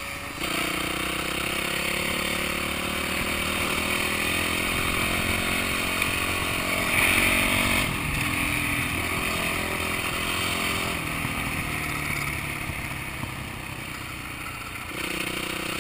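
Enduro motorcycle engine running under way, heard from the rider's own bike. The revs pick up about half a second in and build to a louder burst around seven seconds. They then drop back, ease off lower and pick up again near the end.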